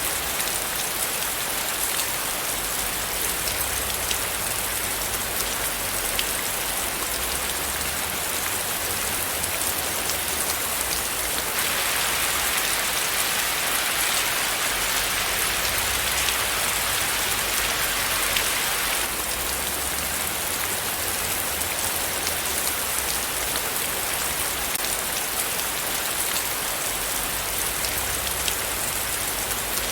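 Steady rain falling, with many small drop ticks over an even hiss. For several seconds in the middle it grows a little heavier, then settles back.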